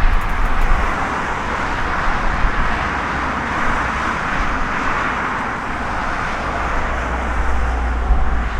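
Airbus A340-600's four Rolls-Royce Trent 500 turbofans roaring at takeoff power: a steady jet roar with a deep rumble that grows stronger near the end.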